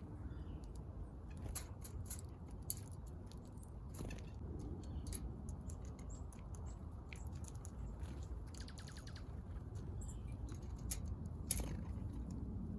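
Small backyard birds: scattered short, high chips and ticks, with a quick run of rapid ticks about nine seconds in, over a steady low background rumble.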